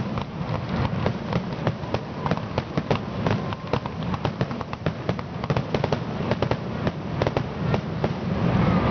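Fireworks finale: a dense, rapid barrage of shell bursts and crackles, many reports a second over a continuous low rumble.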